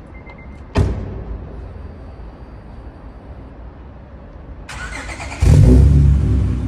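Acura TL with its mufflers deleted: the engine idles low and steady, a sharp thump comes about a second in, and near the end the exhaust jumps suddenly to a loud, deep note as the engine is revved.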